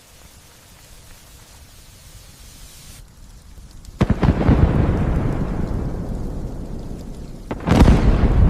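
Light steady rain, then a sudden loud thunderclap about four seconds in that rolls away slowly, and a second loud thunder burst near the end that cuts off abruptly.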